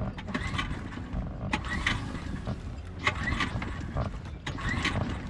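Recoil pull-starter of a Tohatsu 6 HP outboard motor yanked about four times in a row, each pull with a short rising whirr. The engine does not catch after a year in storage.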